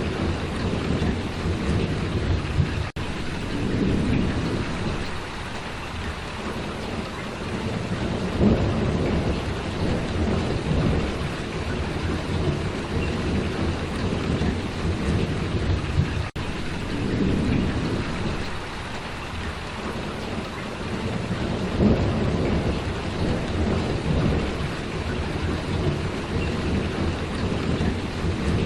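Heavy, steady rain, with low rumbling swells that rise and fade every few seconds.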